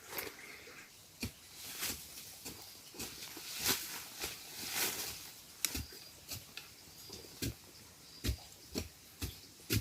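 Irregular clicks, crackles and rustling scrapes, with a brief high chirp recurring several times in the second half.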